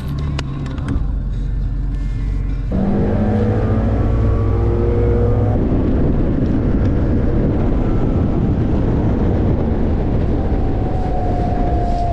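Boat motor running and throttling up about three seconds in, then running steadily at speed.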